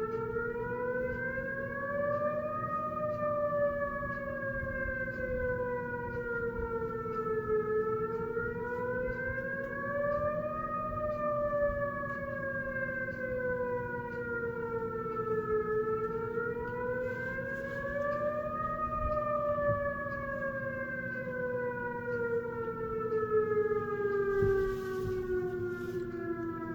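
Whelen outdoor tornado warning siren sounding its wail tone, its pitch rising and falling slowly about every eight seconds, then gliding down in a long final fall near the end as the test tone winds down.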